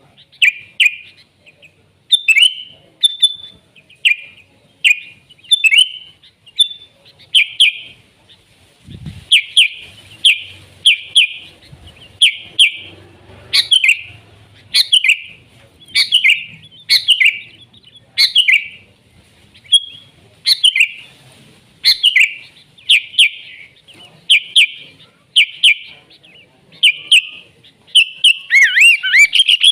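Sooty-headed bulbul calling: short, bright notes repeated about once or twice a second, breaking into rapid chatter near the end.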